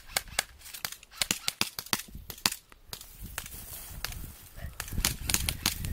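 Airsoft guns firing: irregular sharp pops, several a second, with a lull of about two seconds in the middle before more shots near the end.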